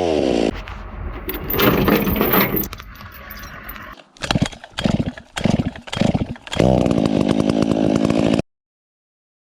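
Chainsaw engine revving up and running, in several short clips with abrupt changes between them, including a run of quick bursts of throttle; it cuts off suddenly near the end.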